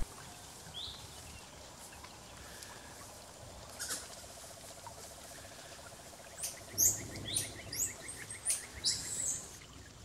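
Forest ambience with birds calling. A low, rattling trill runs through the middle, then a quick run of ticks and several sharp, high chirps come in the second half.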